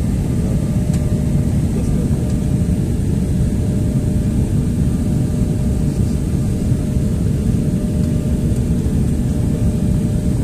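Airliner cabin noise during the descent into landing: a steady, even rush of jet engines and airflow, heaviest in the low end, with a faint steady whine running through it.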